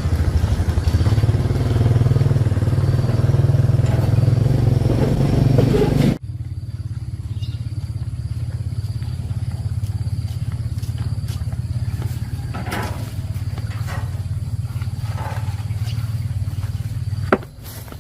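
A small motorcycle-type engine running steadily, loud for about the first six seconds. It then drops suddenly to a quieter, even running that falls away shortly before the end.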